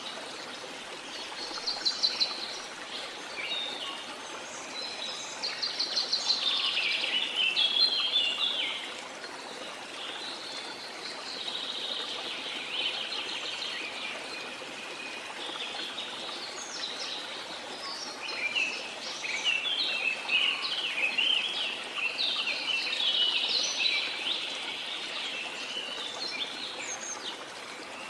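Several songbirds singing in phrases of rapid chirps and trills, loudest around two seconds in, from about five to nine seconds and again from about eighteen to twenty-five seconds, over a steady rush of jungle waterfall water.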